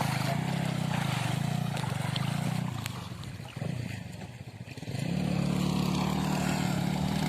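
A motorcycle engine running, easing off about three seconds in and picking up strongly again about five seconds in.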